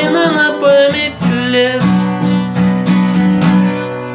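Acoustic guitar strummed in a steady rhythm at the end of a song, with a man's sung note bending in about the first second. About six even strums follow, and the last chord is left ringing near the end.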